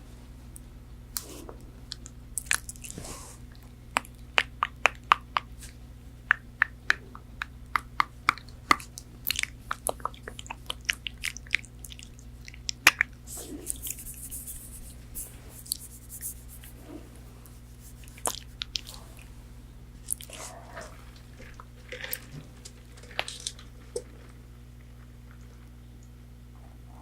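Close-miked eating of McDonald's chicken nuggets: crisp, crackly bites and chewing of the fried breading. The crunches come thick and fast for the first dozen seconds, then thin out to scattered crunches, over a faint steady low hum.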